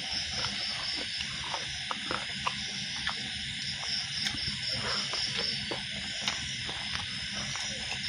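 Crickets trilling steadily, with small, scattered clicks and smacks of chewing close to the microphone.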